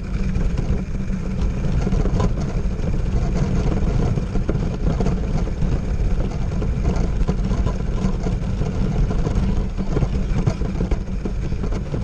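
Radio-controlled monster truck driving: a loud, steady low rumble with crackling, as picked up by a GoPro action camera.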